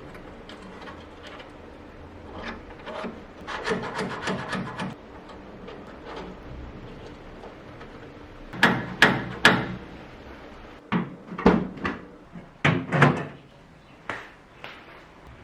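Workshop handling noise while small model parts are worked by hand: a quick run of light ticks, then a series of sharp knocks and taps with a short ring, several close together.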